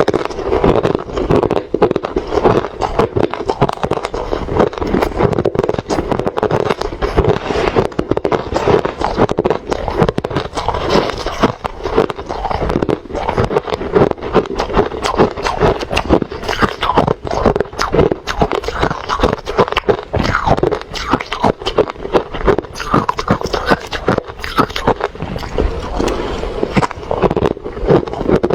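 Refrozen crushed ice being chewed close to the microphone: continuous crisp crunching, a dense run of cracks and crackles with no pauses.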